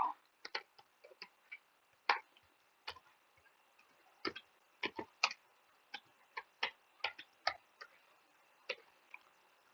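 Computer keyboard typing: irregular key clicks, some in quick pairs and runs, with short pauses between.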